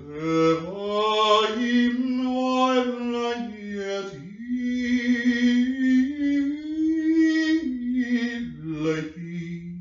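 A man singing or chanting solo without accompaniment, in long held notes that step up and down in pitch, with a short break about four seconds in.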